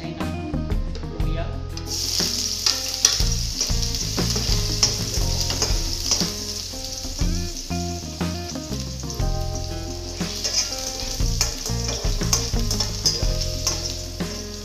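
Ingredients sizzling as they are sautéed and stirred with a spatula in hot cooking oil in a wok; the sizzle starts about two seconds in. Background music plays underneath.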